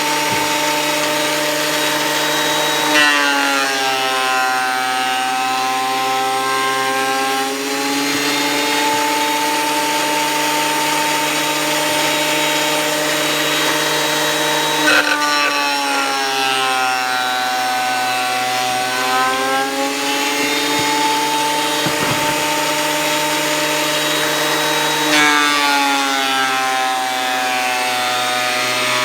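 Thickness planer running with a steady whine. Its pitch sags three times as hardwood boards are fed through and drops back under the cutting load for several seconds each time before it recovers. With freshly changed blades, it is cutting cleanly.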